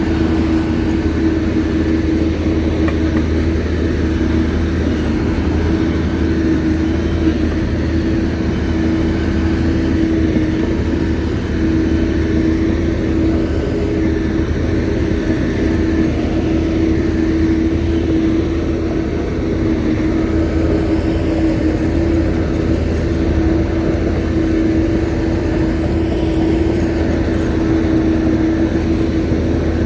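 Shantui crawler bulldozer's diesel engine running at a steady pitch: a constant deep drone with a strong steady tone over it.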